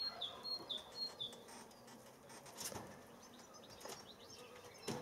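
A small bird chirping, faint: a quick run of short, high, slightly falling notes about twice a second that stops after a second and a half. Two faint knocks follow, one near the middle and one near the end.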